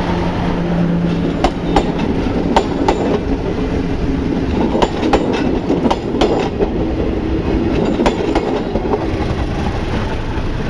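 PNR Bicol Express passenger train running on the line, its wheels clattering over rail joints: a steady rumble broken by an irregular run of sharp clicks, heard from inside a coach. A low hum sounds for the first couple of seconds.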